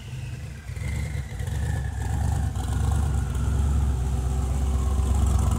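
Twin-turbo LS V8 settling to idle on a chassis dyno just after a full pull, with a high whine sliding down in pitch over the first two to three seconds as it spins down. The idle gets steadily louder.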